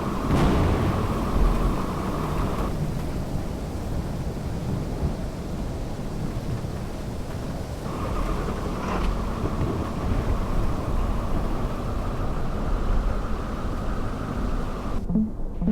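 Steady low rumble of a car driving, with road and engine noise. The higher part of the sound cuts out briefly near the end.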